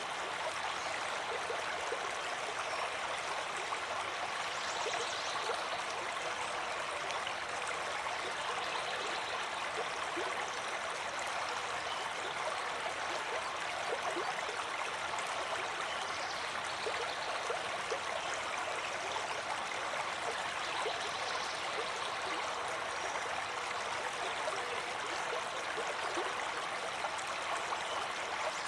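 A stream of water flowing steadily, with a constant rush and fine trickling and gurgling detail.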